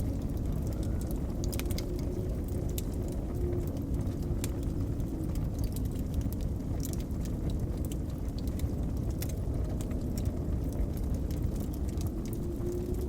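Blizzard wind blowing steadily with a low rumble and a faint wavering whistle, over a wood fire crackling with scattered sharp pops.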